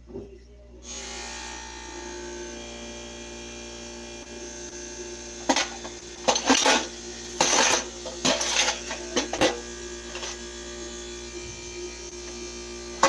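A small motor runs steadily with a buzzing hum, starting about a second in. From about five to ten seconds in, a series of loud, sharp knocks and rattles sounds over it.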